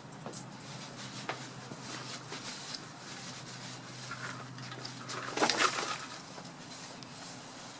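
Birds in a tree making scattered short chirps and ticks, with a louder, brief scratchy flurry about five and a half seconds in, over a steady low hum that fades partway through.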